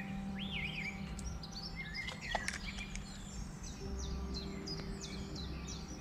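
Several birds singing and chirping at once, many short slurred and warbling notes, over a low steady hum. A single sharp click comes about two and a half seconds in.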